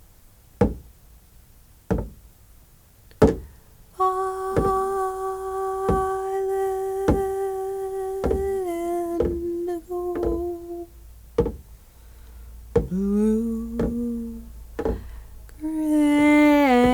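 A woman's voice humming long held notes that step and slide between pitches, over a slow steady beat of soft knocks about every second and a quarter. The first four seconds hold only the beat.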